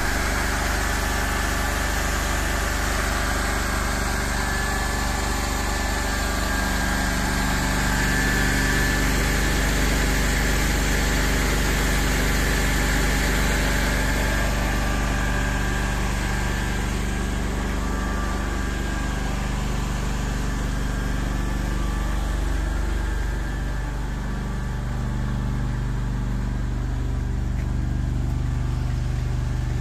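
Engine of the borehole grouting equipment running steadily, its speed wavering briefly about three-quarters of the way through.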